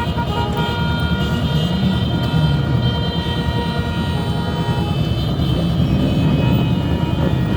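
Motorcycle engines running in a dense group ride, one revving up about a second in, with vehicle horns holding a steady tone that stops about five seconds in.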